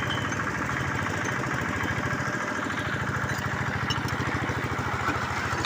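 Engine of a bore-well drilling machine running steadily, with a rapid, even pulse.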